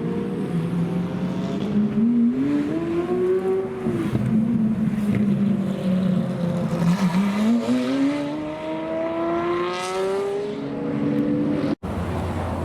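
Lamborghini supercar engine accelerating: the engine note climbs about two seconds in, drops back, then climbs again for a longer pull from about seven seconds to past ten seconds.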